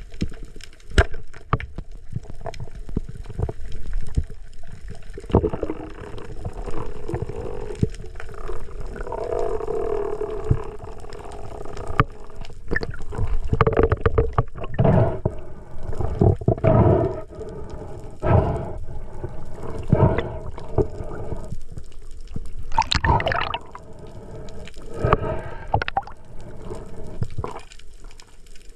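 Sea water sloshing and gurgling around the camera in irregular surges, with hollow ringing bubbly passages.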